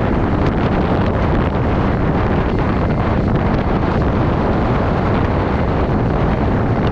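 Steady wind buffeting the microphone of a rider on the move: a loud, unbroken rush of noise, heaviest in the low end.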